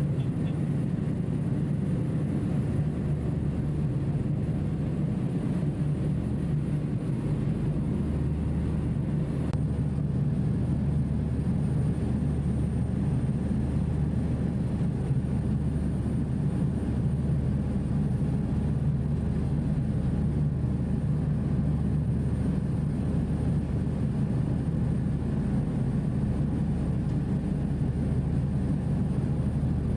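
Passenger ferry's engines running with a steady low drone, heard from on board.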